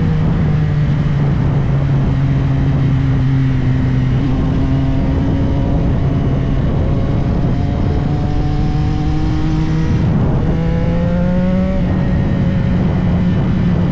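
CFMOTO 675SR-R's three-cylinder engine pulling under way, with wind rush. Its pitch holds, then climbs slowly, drops sharply about ten seconds in, climbs quickly again and drops once more near the end: upshifts under acceleration.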